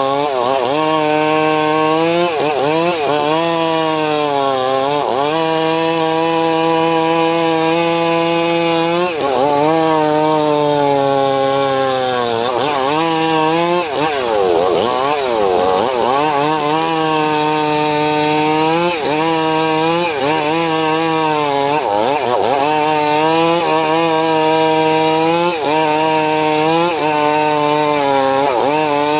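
A home-built srekel saw rig cutting mahogany: a steady, loud machine drone whose pitch dips and recovers again and again as the blade is loaded by the wood, with the longest, most uneven dip a little before the middle.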